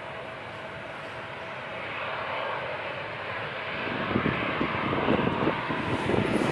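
Jet airliner engines growing steadily louder, with a heavy low rumble coming in about four seconds in.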